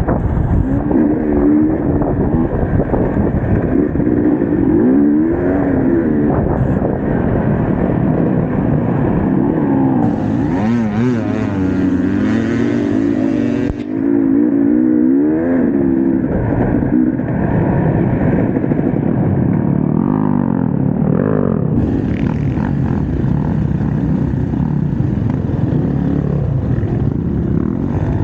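Enduro dirt bike engine running under load, its pitch rising and falling again and again as the throttle is worked on and off.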